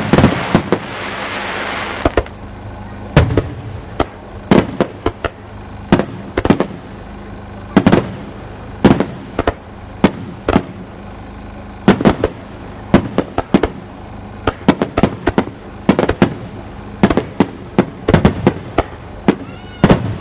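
Aerial fireworks shells bursting overhead: sharp bangs, many in quick clusters. A crackling hiss runs through the first two seconds.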